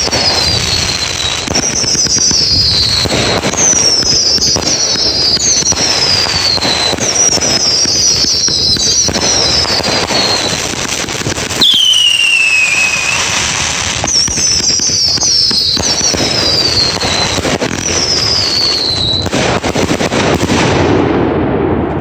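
Fireworks going off in a dense, continuous barrage of crackling and bangs, with many short whistles that each fall in pitch, roughly one every second or two. About twelve seconds in a lower, louder whistle falls away, and the barrage thins out near the end.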